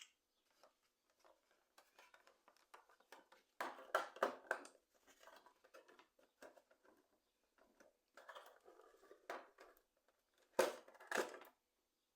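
Packaging and a collector tin being handled during an unboxing: scraping, rustling and small clicks in three bursts, the loudest about four seconds in and near the end.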